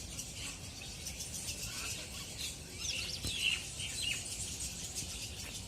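Small birds chirping outdoors: scattered short, high calls and quick pitch-sliding notes, busiest around the middle.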